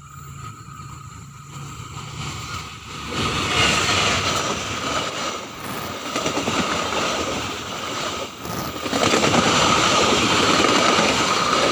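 A train approaching a level crossing at speed, its rushing noise of wheels on rails building up and loudest over the last few seconds.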